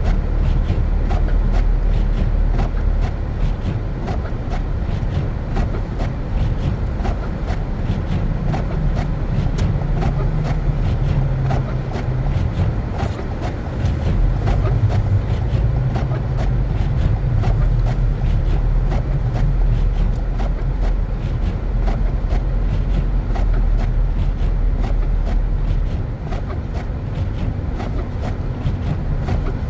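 Car driving on snow-covered streets: a steady low rumble of engine and tyres, with many small clicks and crackles scattered throughout.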